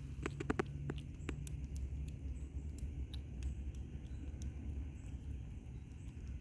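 Cats crunching dry kibble: small sharp clicks, a quick run of them about half a second in, then scattered single ones, over a low steady rumble.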